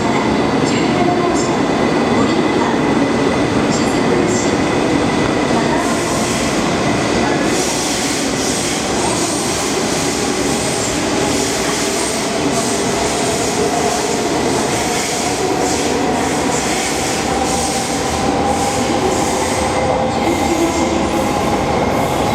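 Shinkansen train moving alongside the platform: a steady, loud rumble of wheels and running gear with a faint whine over it.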